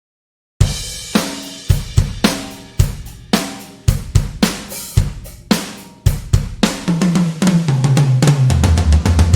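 Sampled acoustic drum kit from the Toontrack EZdrummer 3 virtual instrument playing a groove that starts about half a second in: kick, snare and hi-hat with cymbals. Near the end it runs into a fill of tom hits stepping down in pitch.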